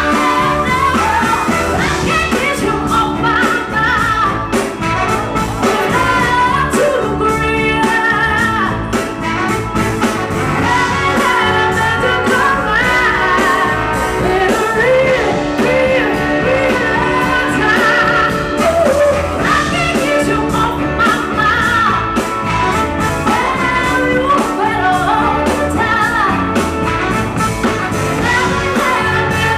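Live soul band playing a song in concert, a strong female lead voice singing over the full band.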